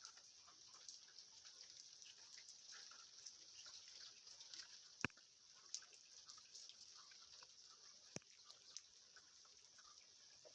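Light rain falling, a faint steady hiss with scattered small drips, and two sharper drops ticking about five and eight seconds in.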